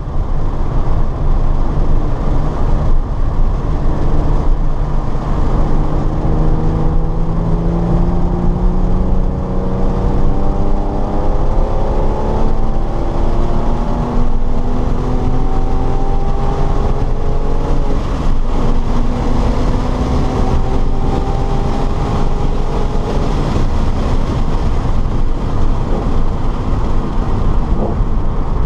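Car engine at full throttle on a race track, its note climbing steadily, dropping at each gear change and climbing again, over a loud, constant rumble of road and wind noise.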